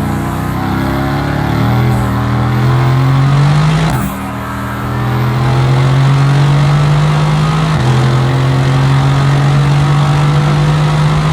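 Mercedes-AMG GT S twin-turbo V8 pulling through a gear, its pitch rising for about four seconds. An upshift drops the pitch sharply, and the engine then runs on at a nearly steady pitch.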